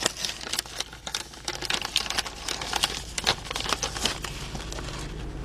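Snack bag of apple chips crinkling and rustling as it is handled and opened, with irregular sharp crackles.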